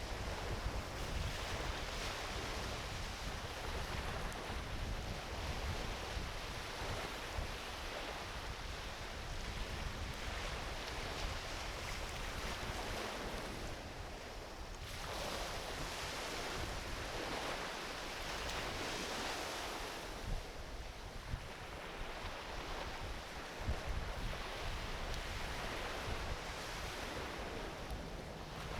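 Small ocean waves washing onto a beach in slow swells, with a driftwood campfire crackling and a few sharper pops. Wind rumbles on the microphone underneath.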